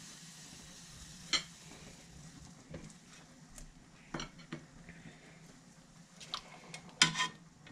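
Kitchen utensils and dishes clinking and knocking in a few scattered taps while food is stirred and served, with a louder clatter near the end.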